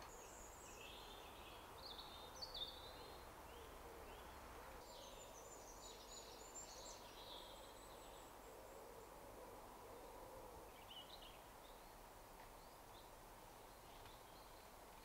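Faint woodland ambience: small birds calling with short, high chirps and twitters, mostly in the first half and again briefly later, over a low steady hiss.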